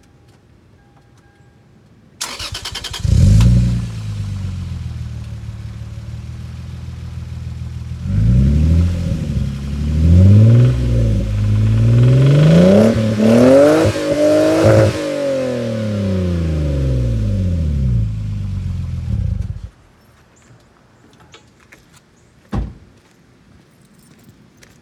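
Lexus IS300's 3.0 L straight-six started through a newly fitted HKS Hi-Power exhaust: it catches with a brief flare, settles to idle, and is revved several times in quick blips before dropping back to idle and being switched off. A single thump comes a few seconds after it shuts off.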